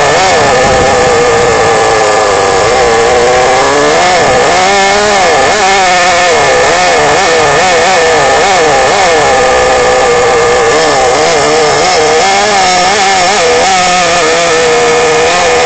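Small engine of an RC model running loud through a homemade stainless-steel muffler, its pitch rising and falling over and over as the throttle is worked up and down.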